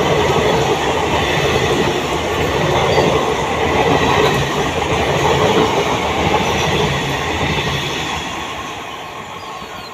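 Express passenger train coaches running past at speed, the wheels rattling over the track, the noise fading away over the last few seconds as the train moves off.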